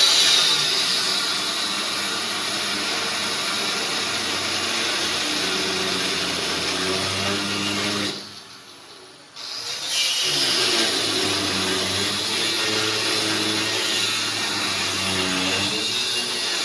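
Race car engines running at speed around a track, their pitch rising and falling. The noise drops away about eight seconds in and comes back after a couple of seconds.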